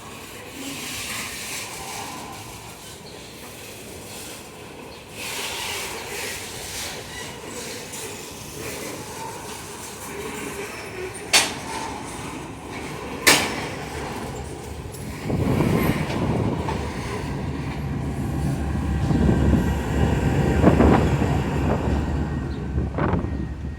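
Heavy freight train of loaded iron-ore hopper wagons rolling past at low speed, its steel wheels running on the rails with two sharp clanks about halfway through. From about two-thirds of the way in, a much louder low rumble builds.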